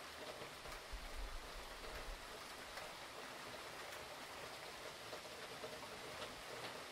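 Steady hurricane rain falling, with scattered individual drops ticking and a brief low rumble about a second in.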